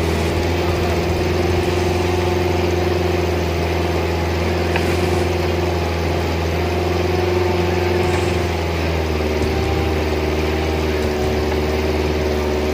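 Suzuki Jimny engine running steadily at idle, its note shifting slightly about nine seconds in.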